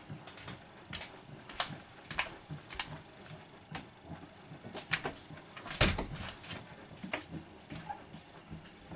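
Bosch WAN28220FF washing machine on a synthetics 40 °C cycle, its drum turning the load with irregular clicks and knocks, one louder knock about six seconds in.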